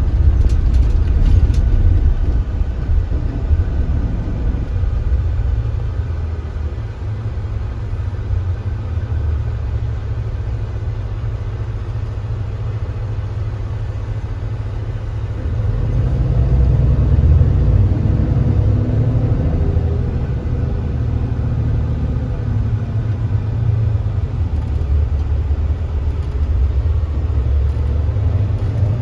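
Kia Granbird Sunshine coach engine running under way, a deep steady rumble. It eases off for several seconds, then picks up again about halfway through as the bus accelerates, its pitch climbing.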